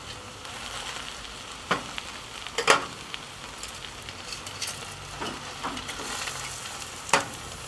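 Meat and vegetables sizzling in a hot cast-iron Dutch oven as seared ox cheeks are laid in with metal tongs. Three sharp clinks of the tongs against the pot stand out, the loudest about three seconds in.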